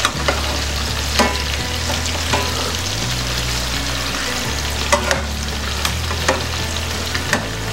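Chicken pieces sizzling as they shallow-fry in a little oil in a non-stick frying pan, with scattered light clicks and scrapes of a metal slotted spoon moving them about. A steady low hum runs underneath.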